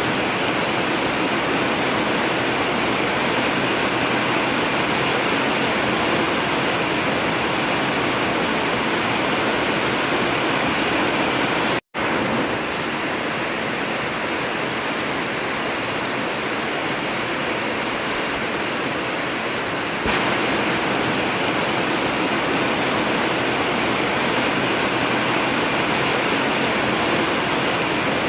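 Heavy rain falling steadily on an old tin roof, a dense even hiss, with a momentary dropout to silence about twelve seconds in.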